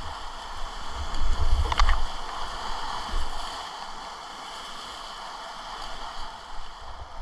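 Whitewater rapids rushing around a kayak, with a couple of short splashes in the first two seconds and low buffeting on the microphone, settling into a steadier rush of water.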